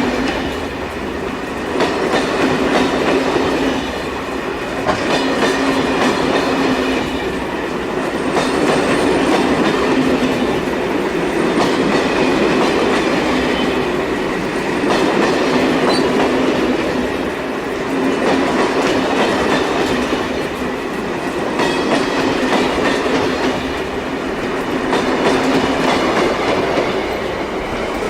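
A train running along the track, its wheels clicking over rail joints, over a steady hum. The noise swells and falls every few seconds.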